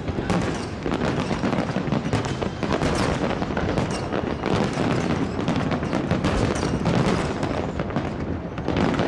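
Aerial fireworks going off in a rapid, unbroken barrage of bangs and crackles, many shells overlapping with no pause.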